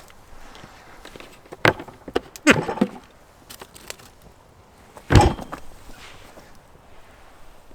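A sharp knock, then a short clatter of knocks, then a heavier thump about five seconds in, like hard objects being set down or handled.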